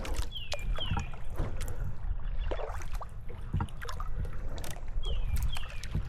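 Kayak paddling: paddle strokes splashing and dripping, with a steady low rumble of wind on the microphone. A pair of short falling whistles is heard twice, near the start and again about five seconds in.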